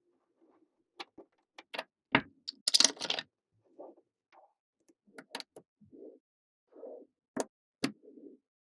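Small magnetic balls clicking sharply as they snap onto one another, about ten separate clicks, with a brief rattling clatter of balls about three seconds in, the loudest moment, and soft shuffling handling sounds between.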